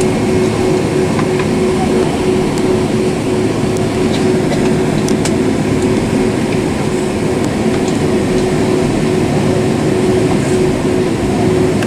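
Steady cabin noise of a Boeing 767-400 in flight: the jet engines and air rushing past the fuselage, with a constant low hum over a loud, even rush.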